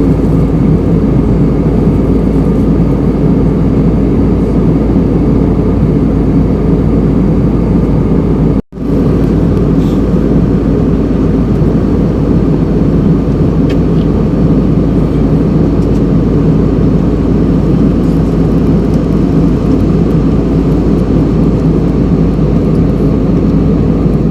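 Steady, loud jet airliner cabin noise: the low drone of the engines and airflow heard from inside the passenger cabin. It is broken once by a sudden, split-second gap about eight and a half seconds in.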